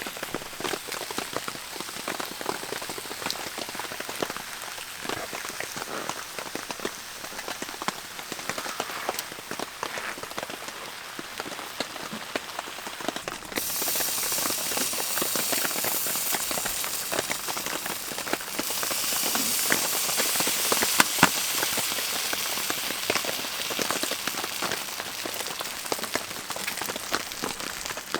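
Steady rain, with many individual drops clicking through a dense hiss. The rain gets abruptly louder and brighter about 13 seconds in, and again near 19 seconds.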